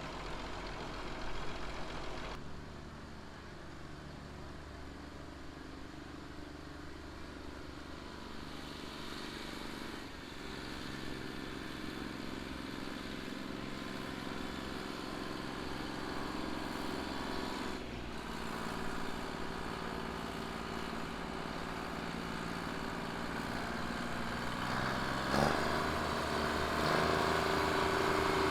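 Engines running steadily, the sound changing abruptly a few times and growing louder towards the end.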